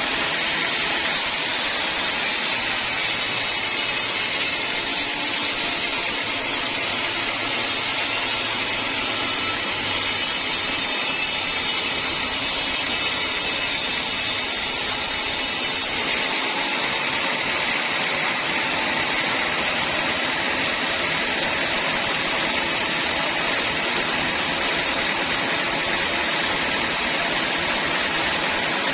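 Sawmill saw running steadily through teak wood, a continuous even hiss and whine.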